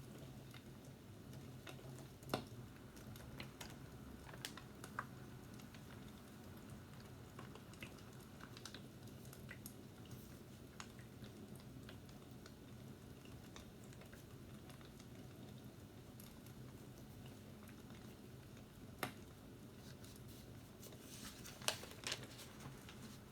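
Fireplace crackling faintly: a steady low hiss with scattered sharp pops, a few of them louder, about two seconds in and near the end.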